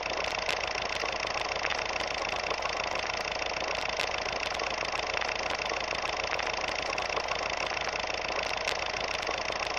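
A steady machine-like hum with faint scattered ticks.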